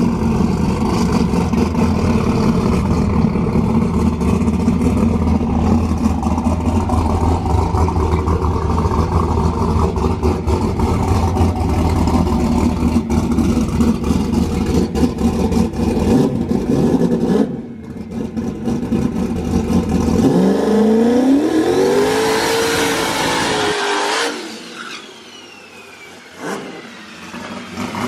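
Drag race car's turbocharged engine running loud at the starting line, then launching about 20 seconds in: the revs climb steeply as the car accelerates hard away, and the sound falls off sharply a few seconds later.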